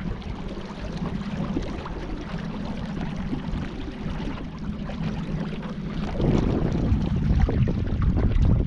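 Water sloshing and splashing around a kayak on the river, with wind on the microphone; the rushing grows louder and choppier about six seconds in.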